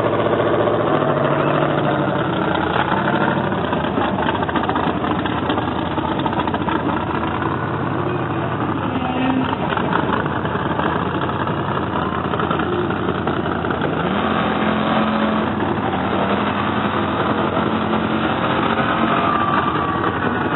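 Monster truck engine running loudly, its pitch shifting up and down with the throttle and rising about two-thirds of the way through, over a dense wash of arena noise.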